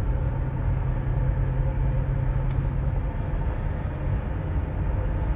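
A car driving, heard from inside the car: a steady low engine and road hum, with one faint tick about halfway through.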